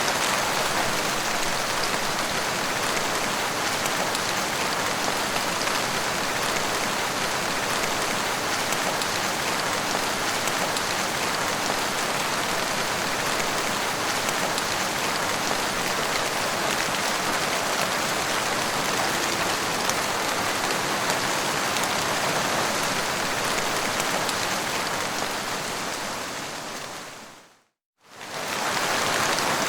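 Steady rain falling. About 27 seconds in it fades out to a brief silence and comes back in about a second later.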